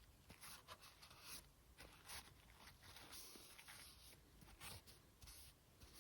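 Faint, scratchy rubbing strokes at irregular intervals, from a PS4 Slim heatsink being scrubbed clean.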